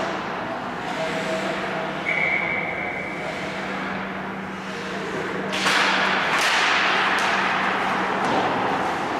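Ice hockey rink in play: a referee's whistle blows once, a steady high tone of about a second and a half, over a constant low hum. Past the halfway point skate blades scrape loudly on the ice amid sharp clacks of sticks and puck.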